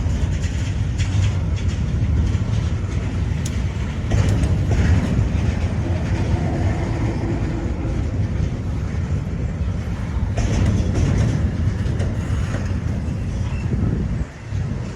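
Freight train rolling past, its steel wheels clicking and clattering over the rail joints above a steady rumble.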